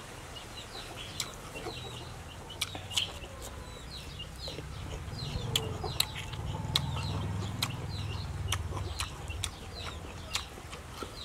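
Birds chirping: many short, high, falling chirps, a few each second. Scattered sharp clicks from chewing come through over them.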